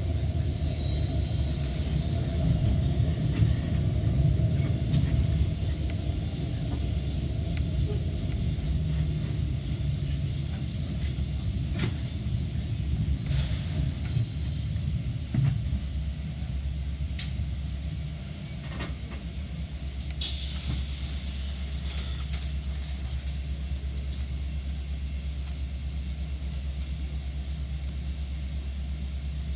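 Metra commuter train riding along the track: a steady low rumble with scattered clicks and knocks. About two thirds of the way through, it settles into a quieter, even hum.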